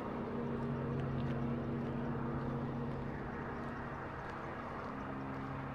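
Engine idling, a steady low hum that holds one pitch throughout.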